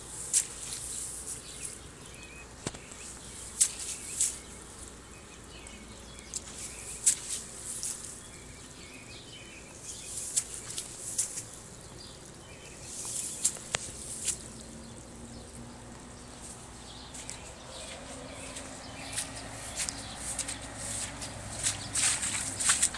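Heavy rain falling during a thunderstorm downpour: a steady hiss with irregular sharp drops and taps close by. A faint low hum rises over the last few seconds.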